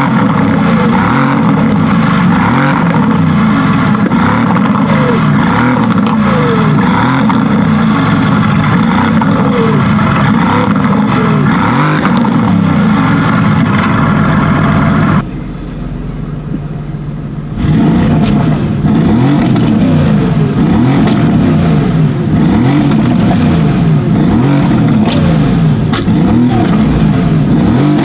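Tuned Mercedes-AMG GT S twin-turbo V8 revving and accelerating, its pitch rising and falling many times over. About halfway through it drops to a quieter, steady low note for a couple of seconds, then the revving picks up again.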